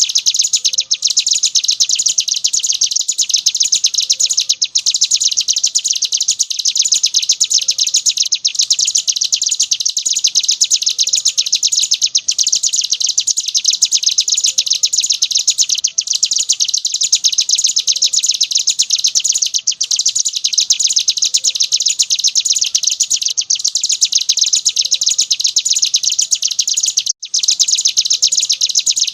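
Ciblek gunung (a prinia) singing in its 'ngebren' style: a nonstop, very rapid, high chattering trill. It breaks off briefly about every four seconds, then starts again.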